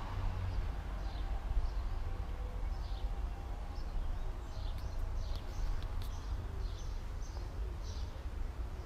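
Small birds chirping, short high calls about twice a second, over a steady low rumble of outdoor background noise.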